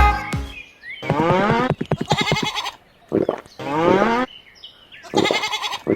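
Livestock bleating, three calls, each rising in pitch.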